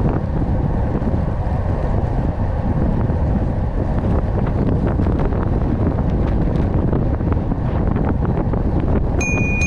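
Wind rushing over the microphone on top of steady vehicle road noise while driving. Near the end a steady high electronic beep starts and holds.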